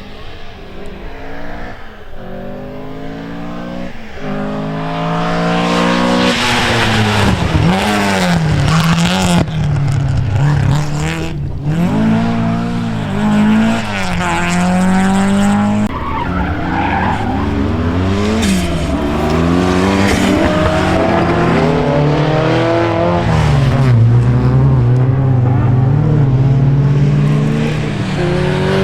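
Rally car engine revving hard through the gears, its pitch climbing and dropping back again and again as it shifts and lifts, growing loud about five seconds in.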